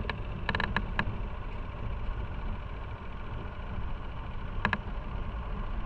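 Riding on a motorcycle: a steady low rumble of engine, wind and road noise, with a cluster of sharp clicks in the first second and two more a little over four seconds in.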